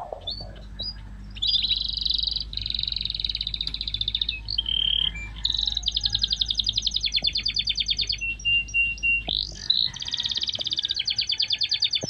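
Birds chirping in quick, repeated trills, with the low steady hum of a tractor and its mower running in the background that cuts off about ten seconds in.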